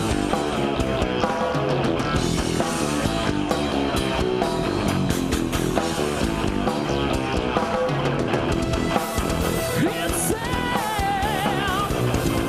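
Progressive metal band playing live: busy, fast-moving guitar lines over bass and drums. In the last couple of seconds a lead line comes to the fore, wavering with heavy vibrato.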